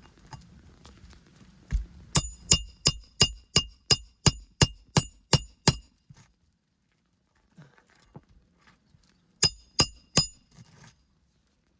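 Hammer blows on a roofing nail: about a dozen quick strikes at roughly three a second, each with a short metallic ring, then a pause and three more strikes near the end.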